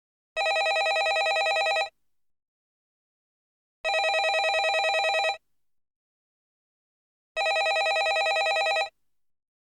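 Landline telephone ringing in a trilling ring, three rings of about a second and a half each, separated by gaps of about two seconds.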